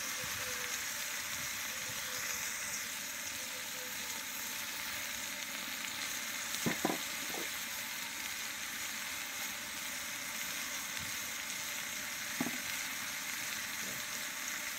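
Sliced onions, tomatoes and whole spices sizzling in hot oil and butter in a large aluminium cooking pot, a steady hiss with a few brief pops about seven seconds in and again near twelve seconds.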